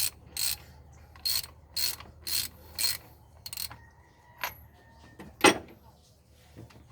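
Ratchet wrench being worked back and forth on the engine, about two clicking strokes a second, stopping after three and a half seconds; then a few light clicks and one sharp metal clink about five and a half seconds in.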